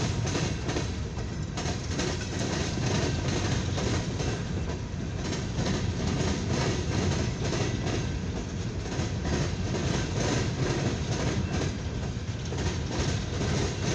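Long CSX coal hopper train rolling past: a steady rumble of steel wheels on rail, with repeated clicking as the wheels pass over rail joints.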